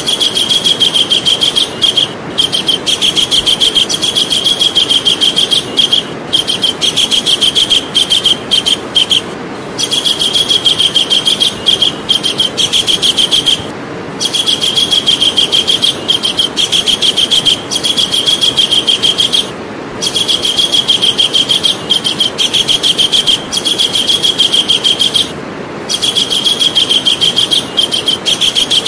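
Javan kingfisher (cekakak Jawa) calling: long, very fast rattling series of high notes, each run broken by a short pause every few seconds, over a steady background hiss.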